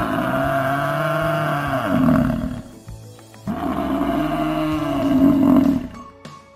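Water buffalo bellowing twice: two long, low, drawn-out calls, the second starting about three and a half seconds in, each bending up and down in pitch.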